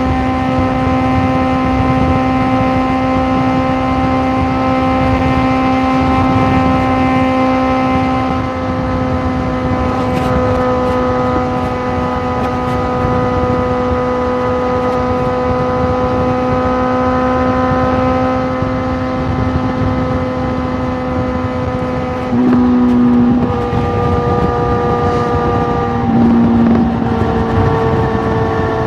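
Suzuki GSX650F's inline-four engine running through a Tiger aftermarket exhaust, holding a steady, slowly falling pitch, with two brief surges of throttle near the end.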